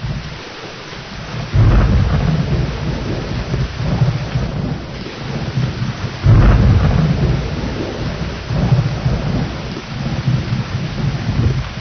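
Thunderstorm: steady rain falling, with two rolls of thunder that break in sharply, about a second and a half in and again about six seconds in, each rumbling on for several seconds.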